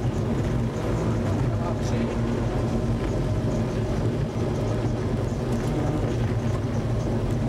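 Trabant rally car's two-stroke two-cylinder engine running steadily, heard from inside the cabin, holding a near-constant pitch.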